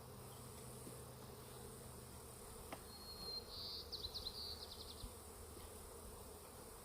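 Honeybees buzzing steadily around an opened hive. About three seconds in, a brief high-pitched warbling trill sounds over the buzz.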